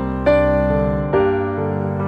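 Soft, slow piano music: sustained notes over a low bass, with new notes struck twice.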